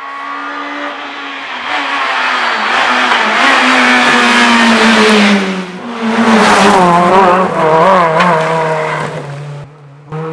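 Rally car engine at full attack passing close by: it grows loud over the first few seconds with a slowly falling note. After a brief dip just before the middle it comes back loud with a wavering, up-and-down note, then fades near the end.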